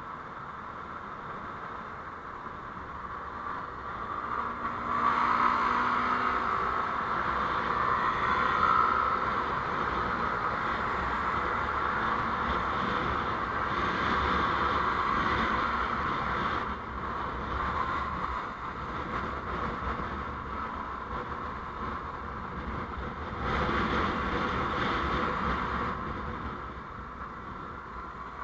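Road traffic noise from a moving vehicle: a steady rush of tyres, engine and wind that swells about five seconds in and again near the end, as traffic passes or speed picks up.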